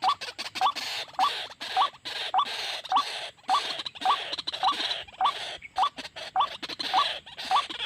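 White-breasted waterhen calling: a short rising 'kwak' note repeated evenly, nearly twice a second, with harsh, raspy calls between the notes.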